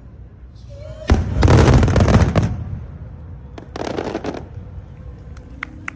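Fireworks bursting: a sharp bang about a second in, then dense crackling for over a second, a second shorter spell of crackling near the middle, and scattered sharp pops near the end.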